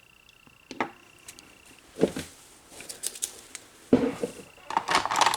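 Clicks and knocks of small objects, such as polish bottles and nail tools, being picked up and set down on a tabletop. There are a few separate knocks, then a quick run of clicks near the end, which is the loudest part.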